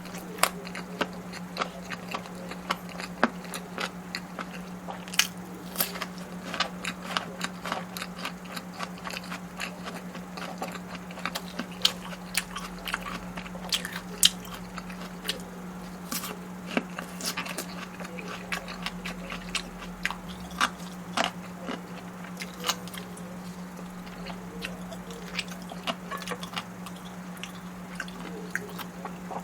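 Close-miked eating of black bean instant noodles and barbecue chicken: steady chewing and biting with many short, sharp mouth clicks and smacks. A steady low hum runs underneath.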